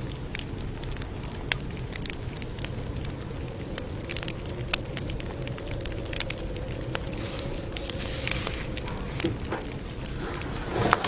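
Campfire crackling: scattered sharp pops and snaps over a steady low rumble of burning wood. A louder noise begins just at the end.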